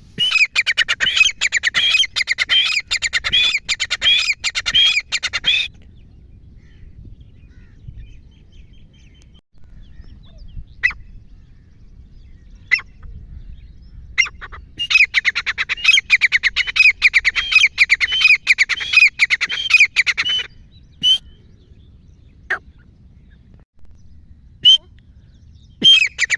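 Grey francolin calling: a fast run of loud, repeated notes lasting about five and a half seconds, then a few single calls. Near the middle a second fast run of the same length follows, and a few more single calls come near the end.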